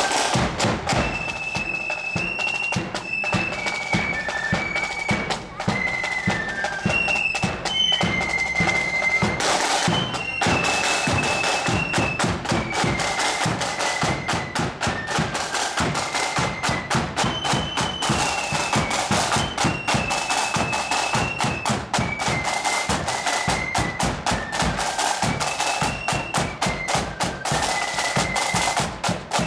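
Marching flute band playing a high melody of held notes over a steady drum beat with bass drum, with a crash about ten seconds in.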